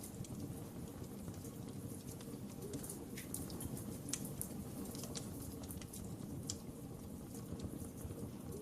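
Wood fire crackling in a fireplace: scattered sharp pops and snaps over a steady low rumble of burning.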